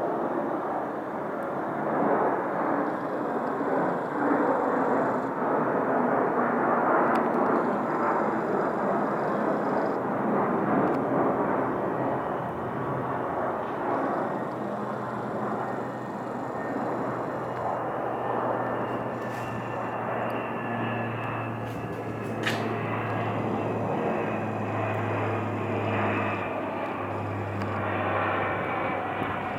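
A US Air Force MC-130 four-engine turboprop circling low overhead, its engines and propellers loud and steady. In the second half a steady low propeller hum comes to the fore under the broad engine noise.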